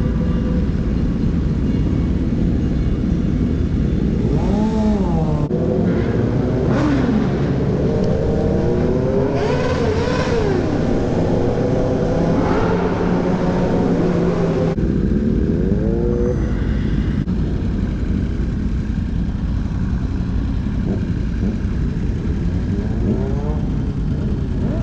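Motorcycle engines running and revving during a group ride, their pitch rising and falling several times, over a heavy wind rumble on the microphone. The sound changes abruptly about five and fifteen seconds in.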